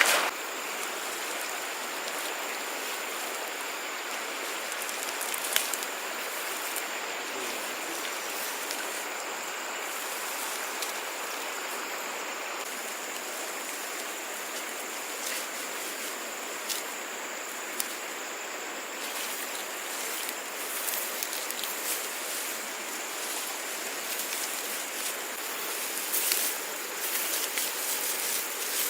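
Stream water running steadily, an even rushing hiss, with a thin steady high-pitched whine above it and a few faint clicks.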